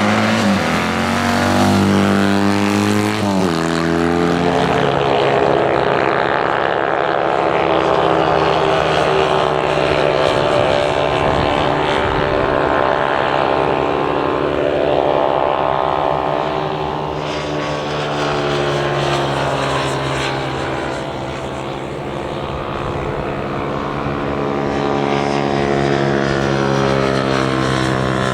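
Motorcycle engines running hard on a race circuit, several bikes going past one after another with their engine note rising and falling in pitch.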